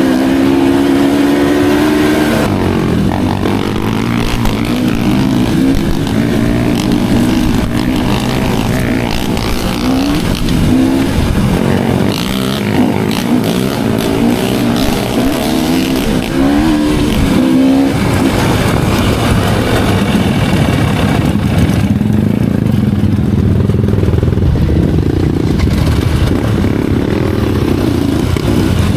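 Dirt bike engine running under varying throttle on a trail ride, its pitch rising and falling with the revs, with a steadier stretch in the last third.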